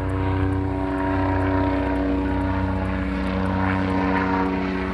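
Helicopter flying overhead: a steady engine drone with the rapid low beat of its rotor.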